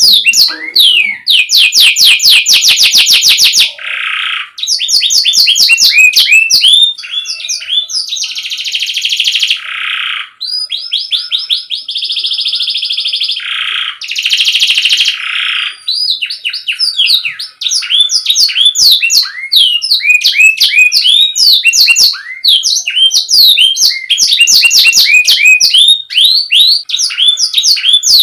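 Domestic canary singing: rapid trills of quickly repeated rising notes, broken by two longer, continuous buzzing rolls about eight and twelve seconds in.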